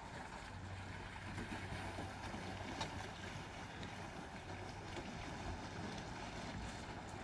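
Steady outdoor background noise by a lake, with wind buffeting the microphone and a low hum underneath, and a few faint clicks.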